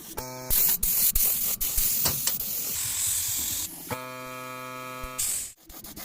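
A high-pressure spray hissing loudly for about three seconds, with a few sharp clicks. It stops, and a steady electric motor hum takes over for just over a second.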